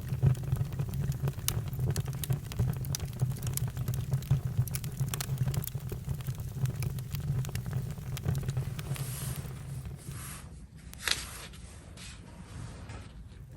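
Campfire crackling: frequent sharp pops over a steady low rumble. The rumble thins out for the last few seconds, and one louder pop comes about eleven seconds in.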